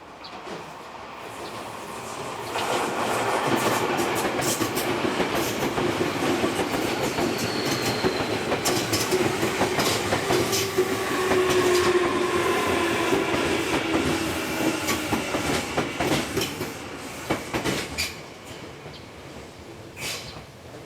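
Yokohama Minatomirai Railway Y500 series electric train passing, its wheels clacking over rail joints under a steady hum. It comes in about two and a half seconds in and fades out near the end.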